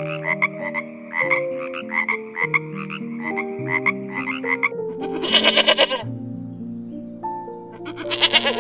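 Tree frog croaking in a fast run of about five croaks a second, then giving a louder rattling call about five seconds in, over background music. A sheep bleats near the end.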